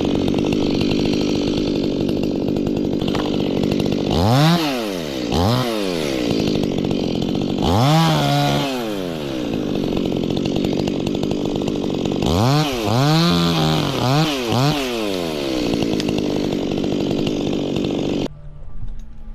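Stihl two-stroke chainsaw running, revved up and back down about five times in quick throttle bursts, then cut off suddenly near the end.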